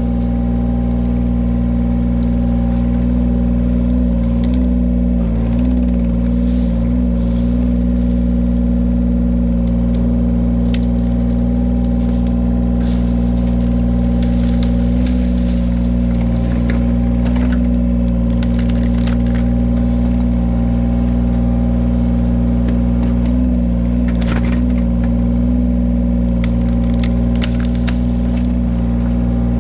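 An engine runs steadily while wood cracks and snaps again and again as logs are split by a powered wood-splitting cutter.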